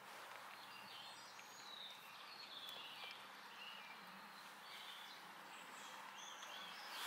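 Faint, scattered bird chirps over a quiet, steady background hiss.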